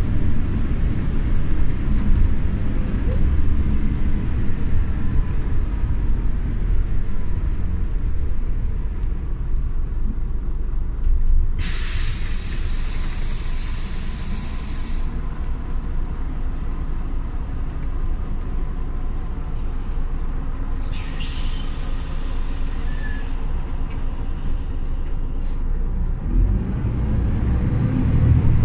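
Scania OmniLink CL94UB city bus running with a steady low engine rumble, broken by two long compressed-air hisses from its pneumatics about ten seconds apart. Near the end the engine rumble grows louder.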